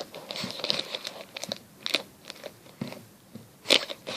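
Irregular crinkling and crunching as a homemade squishy is handled and squeezed.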